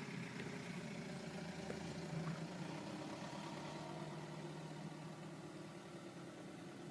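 Ice cream truck's engine idling steadily, faint, without its music playing.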